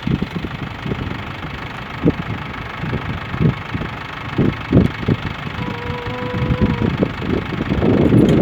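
Gusty wind rumbling and buffeting against the microphone, in uneven surges, as a rainstorm approaches. A brief steady tone sounds for about a second a little past the middle.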